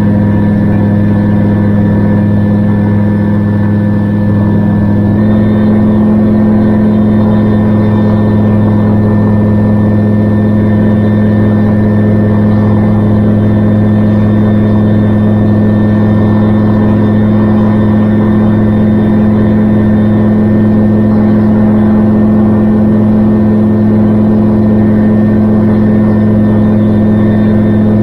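Gyrocopter engine and propeller running steadily in flight, a loud, even drone that rises slightly in pitch about five seconds in.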